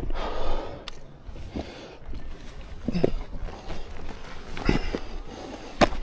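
Hikers' footsteps scuffing on rock during a steep climb, with a few sharp knocks, the loudest near the end.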